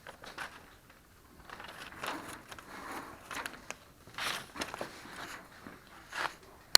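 Intermittent scraping and rustling of stove-kit pieces being handled and marked around on a steel barrel, with a single sharp click near the end.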